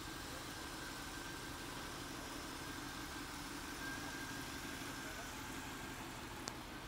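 A car engine idling steadily, with a single short click near the end.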